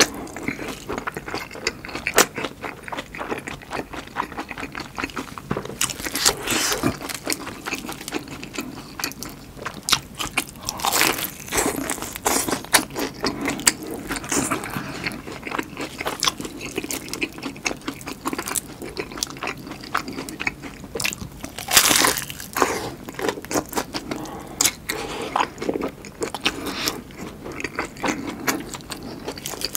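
Close-miked chewing of batter-fried giant green chili peppers: crisp batter crunching between the teeth with wet mouth sounds. Several louder crunchy bites stand out.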